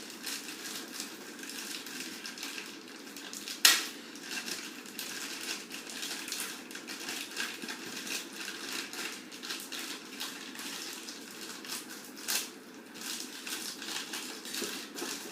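Packaging being handled as a small charger is taken out of its box: steady rustling and crinkling with many small clicks, and one sharp loud click a little under four seconds in.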